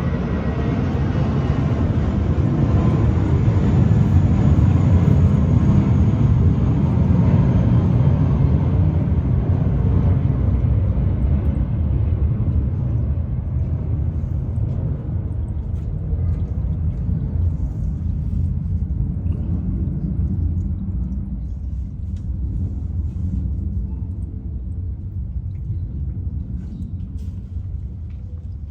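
A loud low rumble that swells over the first few seconds, then slowly fades, its higher part dying away first.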